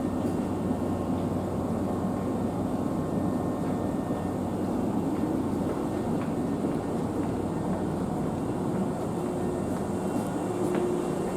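Hankyu electric train running: a steady rumble of wheels on the rails and the running gear, with no breaks.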